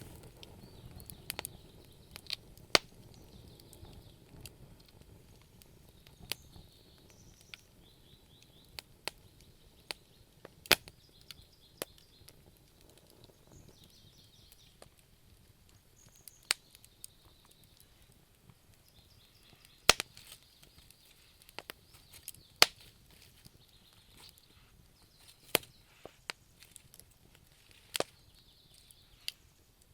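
Wood fire in a fireplace crackling, with sharp pops and snaps at irregular intervals over a faint steady hiss, a few of them much louder than the rest.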